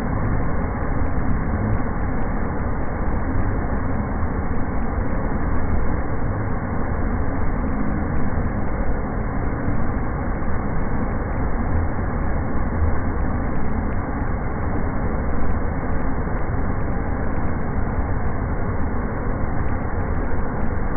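Waterfall rushing with a steady, unbroken roar of falling water, heaviest in the low end.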